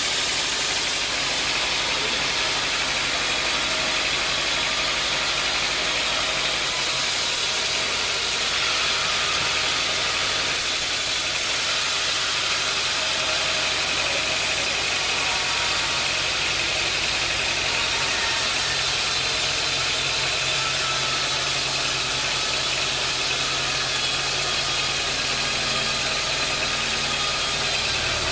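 Sawmill machinery running steadily: a constant engine-like drone with a hiss over it, its low hum shifting a few times.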